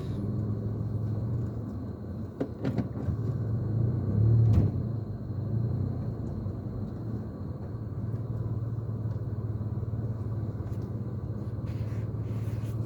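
Mitsubishi Mirage engine running steadily, heard from inside the cabin as a low hum, swelling briefly about four seconds in, with a few light clicks. The engine runs without sputtering after its fuel pump was replaced and the air bled from the fuel line.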